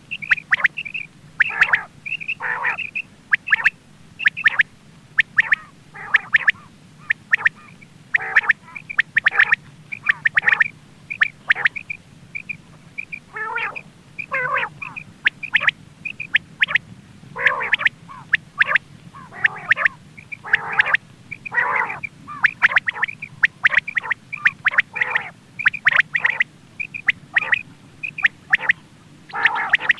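Quail calling, as played for luring birds when hunting: a rapid string of short, sharp calls repeated over and over, often overlapping, with a faint steady hum underneath.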